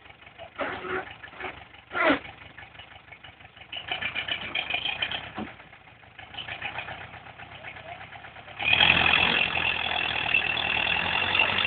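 DTC 640 forestry tractor's diesel engine running with a steady rhythmic beat, then revved up and held louder about nine seconds in. Two sharp knocks are heard in the first two seconds.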